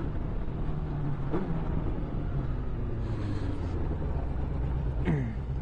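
Sport motorcycle engine running at a steady, low pitch while riding at low speed, with road and wind noise.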